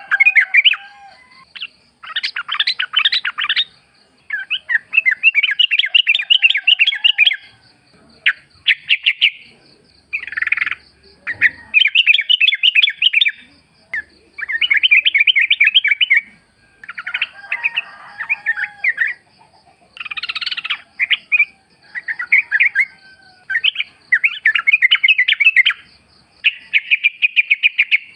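Yellow-vented bulbul singing: short, bubbly, chattering phrases of one to two seconds, repeated again and again with brief pauses. A faint, high, rapid pulsing runs steadily underneath.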